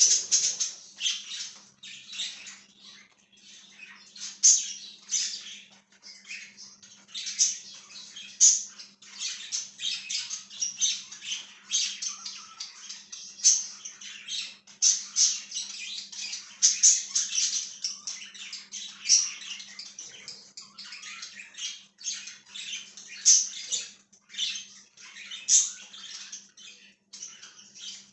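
A flock of budgies chirping and chattering, a dense stream of short, high chirps and squawks with no pauses.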